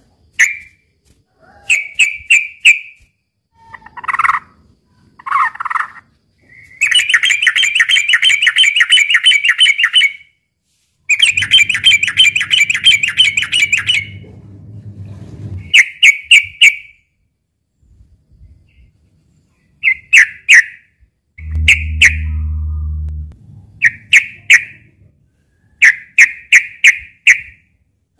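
Yellow-vented bulbul (trucukan) singing: short, quick bubbling phrases repeated every second or two, with two long, rapid chattering runs of about three seconds each partway through. A low hum sounds underneath during the second run and again briefly around two-thirds of the way in.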